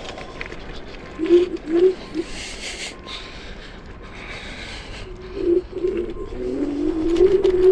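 Electric motor whine from the Chaos FreeRide scooter's dual 1200 W motors: three short bursts about a second or two in, then from about five seconds a whine that rises steadily in pitch as the scooter speeds up.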